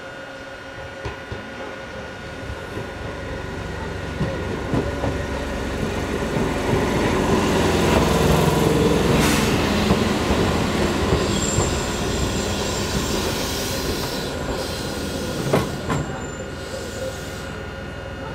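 Eizan Electric Railway 900 series 'Kirara' electric train running slowly past on its way into the station, its wheels clacking over rail joints. It grows louder as it approaches, is loudest as it passes, and fades as it moves away. A brief high wheel squeal comes about two-thirds of the way through.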